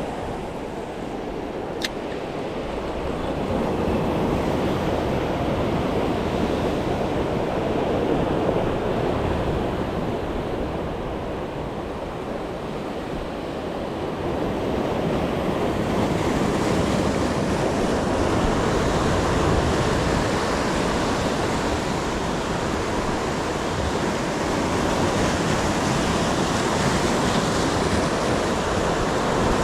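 Ocean surf washing against the shoreline, a steady rush that swells and eases, with one sharp click about two seconds in.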